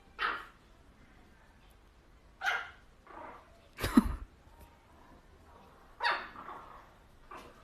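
A dog barking in short single barks with pauses between them, about six in all. The loudest comes about four seconds in, with a thump under it.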